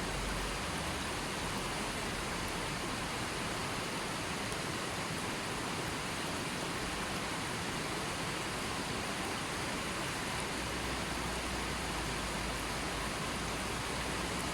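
Steady, even hiss of rushing or falling water, unbroken and without distinct drops or splashes.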